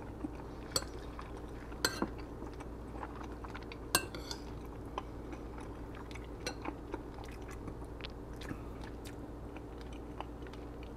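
Close-up chewing of a mouthful of ground turkey and rice, with a metal spoon clinking and scraping against a bowl a few times in the first four seconds. A steady low hum runs underneath.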